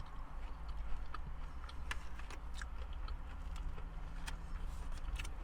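Someone chewing fast food close to the microphone, with irregular crisp mouth clicks, over a steady low hum.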